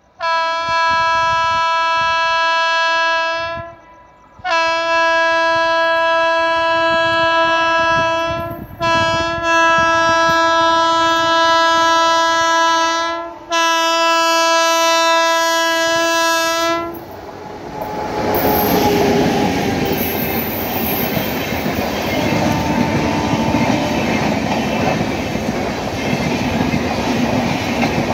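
Indian Railways locomotive horn sounding four long blasts as the Gaya–Chennai express approaches, the last three almost joined. From about 17 seconds in, the horn gives way to the loud rumble and clatter of the train's wheels on the rails as the coaches pass close by.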